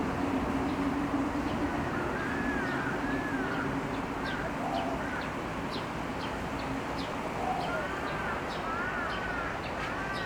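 Small birds chirping repeatedly in short arched notes over steady street background noise. A low engine hum fades out a few seconds in.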